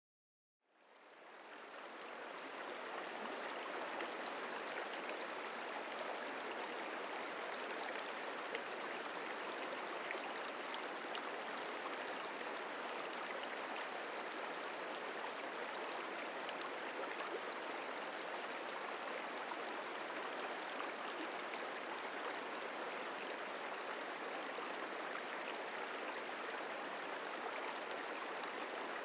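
The Merced River flowing, a steady rush of running water that fades in over the first couple of seconds.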